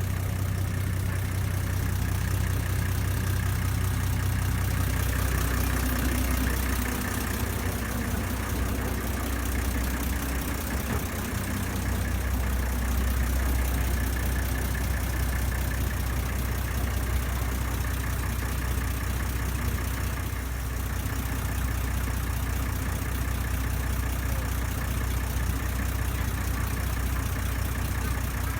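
Ferry boat engine running steadily, a continuous low drone with a hiss above it.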